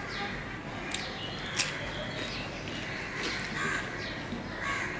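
Biting into and chewing a slice of raw cucumber: a few crisp crunches, the sharpest about a second and a half in.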